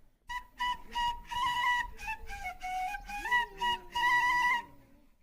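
Flute playing a melody of short separate notes and a longer held note near the end, with a short pause at the start and another at the end.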